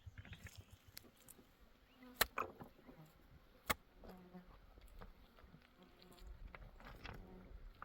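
A flying insect buzzing near the microphone, its hum coming and going, with two sharp knocks, one about two seconds in and another a second and a half later.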